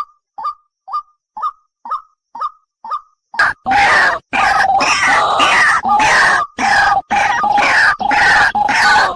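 A bird's short call repeated about twice a second, each a quick downward note. About three and a half seconds in, it gives way to loud, harsh screeching broken by short gaps.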